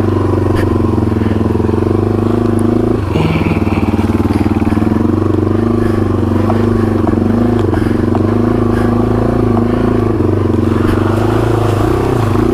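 Yamaha TW200's single-cylinder four-stroke engine running steadily as the bike is ridden. There is a brief break in the engine note about three seconds in, and a short dip and recovery in revs near the end.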